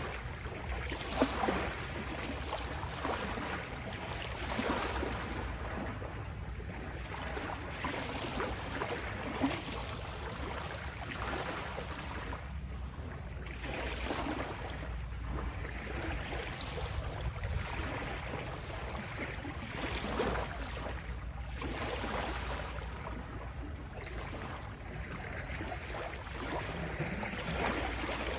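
Small sea waves lapping on the shore, a continuous wash that swells and eases every few seconds, with a couple of sharper splashes.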